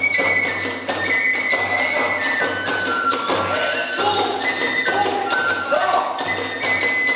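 Kagura hayashi ensemble playing a fast dance section: a bamboo flute holds notes that step up and down in pitch over a steady, driving beat of large drum and clashing hand cymbals.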